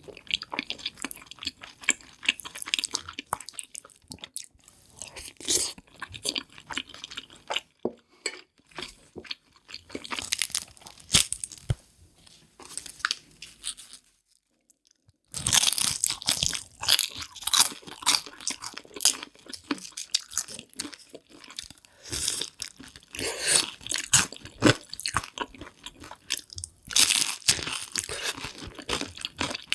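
Close-miked crunching and chewing of crisp food in a mukbang, irregular crackling bites one after another, broken by a short silent gap about halfway through.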